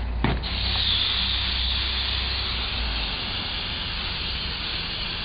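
Aerosol can of hairspray spraying in one long steady hiss, starting just after a short knock about a third of a second in.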